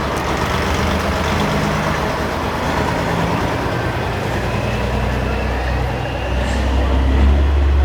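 Diesel engines of Peterbilt semi-trucks running as the rigs roll slowly past, with a low engine rumble that builds about halfway through and is loudest near the end.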